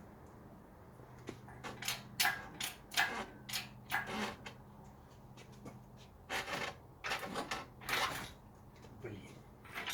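Irregular metallic clunks, knocks and scrapes, in short clusters, from engine parts and the hoist as the engine is manoeuvred out of the engine bay.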